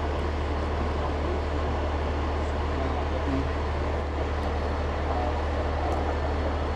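Ladder truck's engine running at a steady idle, a constant low drone.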